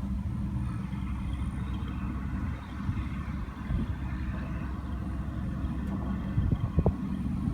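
Steady low mechanical rumble with a faint hum, and a few light knocks about six to seven seconds in.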